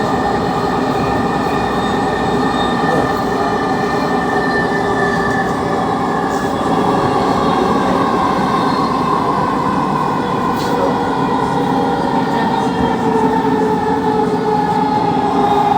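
Dhaka Metro Rail train running, heard from inside the carriage: a steady rumble with an electric motor whine that slowly drops in pitch over the second half.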